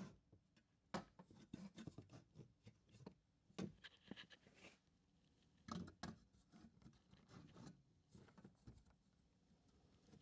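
Near silence broken by faint, scattered knocks, clicks and rubbing at irregular intervals, the small sounds of equipment being handled.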